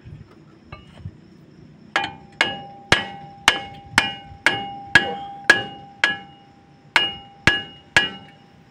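A hammer striking a metal part about thirteen times, roughly two blows a second starting about two seconds in, each blow ringing with a clear metallic tone. The part is being driven into place during a disc brake pad replacement.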